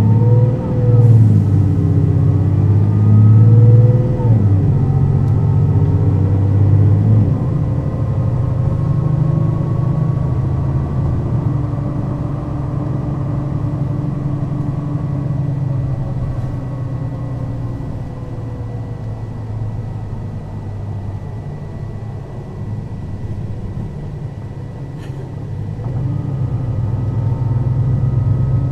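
Mercedes-Benz O 530 Citaro city bus engine pulling hard for the first several seconds, its pitch rising and loudness peaking twice, then easing to a quieter, steadier run with slowly gliding whine, and pulling louder again near the end.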